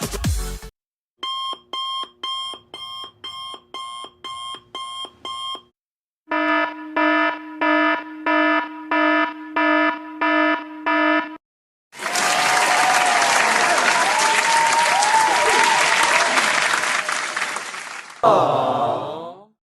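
A run of sound effects played one after another. First come about ten short, high electronic alarm-clock beeps, about two a second. Then come about eight lower, longer beeps, about six seconds of noisy hiss with wavering tones through it, and a short falling sweep near the end.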